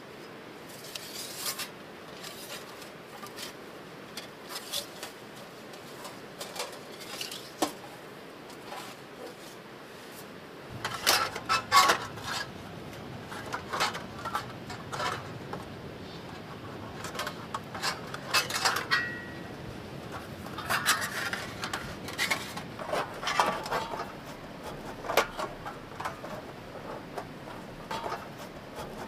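Scattered small clinks, scrapes and rubbing sounds of camp gear and cookware being handled, busier after about ten seconds, when a low background sound also comes in.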